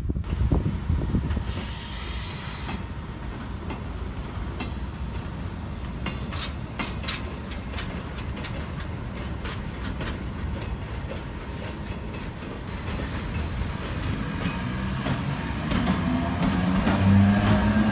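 Freight train of hopper wagons rolling on the track, with a low rumble and many wheel clacks and clicks, a short air hiss about two seconds in, and a low hum growing louder near the end.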